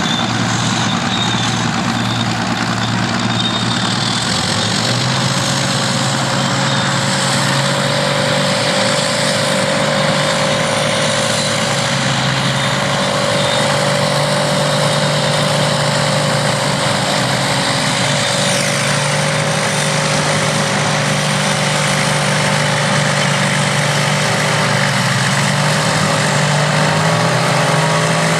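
Engines of vintage crawler bulldozers and scrapers running steadily, with the engine note stepping up in speed about five seconds in and wavering slightly as they work.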